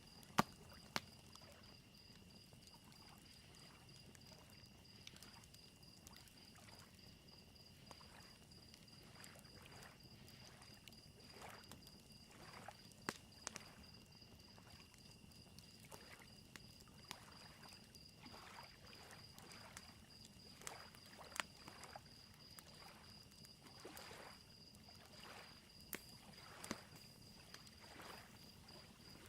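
Faint campfire crackling in scattered sharp pops, over a continuous high-pitched cricket trill and a soft wash of lake waves lapping.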